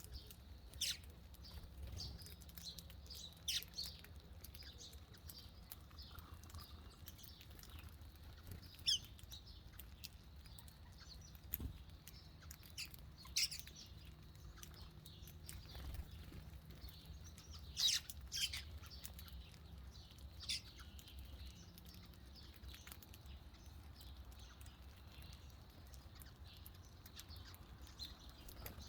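Birds giving short, sharp chirps, single or in quick pairs, scattered a few seconds apart, over a faint steady low hum.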